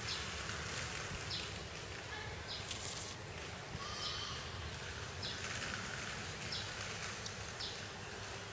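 Small birds chirping: short high chirps, about one a second, over a steady low outdoor rumble.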